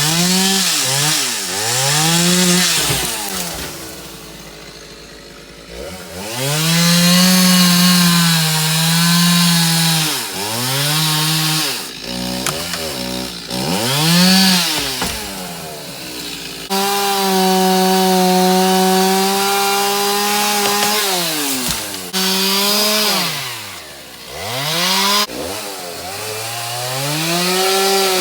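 Two-stroke chainsaw cutting limbs, revving up to full throttle and holding there for a few seconds at a time, then dropping back to idle, over and over.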